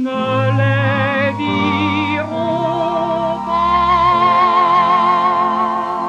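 Closing bars of a French chanson's orchestral accompaniment: a few sustained chords with vibrato, ending on a long held final chord.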